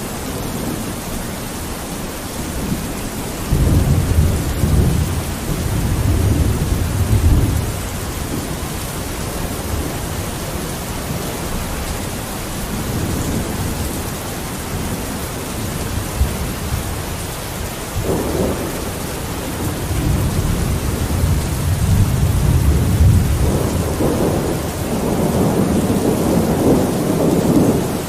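Steady rain falling on a window, with low rolling rumbles of thunder: one from about three to seven seconds in, a short one later, and a longer one through the last third.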